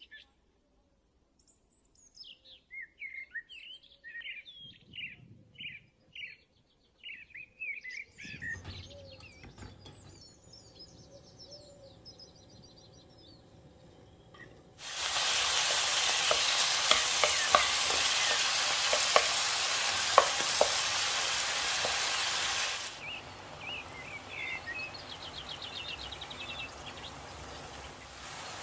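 Small birds chirp in short calls for the first several seconds. About fifteen seconds in, diced chicken breast hits hot oil in a frying pan and sizzles loudly with scattered pops for about eight seconds. Then it drops to a quieter sizzle as the pieces are stirred with a wooden spoon.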